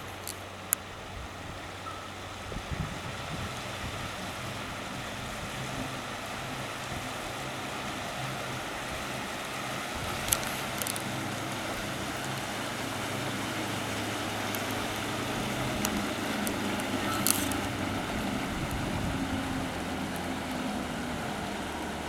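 Houseboat's engine running steadily under way, with a rush of wind and water. Its hum grows slowly louder, and two sharp clicks come through, one near the middle and one later.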